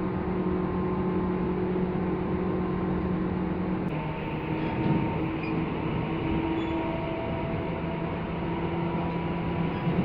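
Tobu 10030 series electric commuter train running, heard from inside the passenger car: a steady rumble of the ride with humming tones underneath that shift slightly about four seconds in.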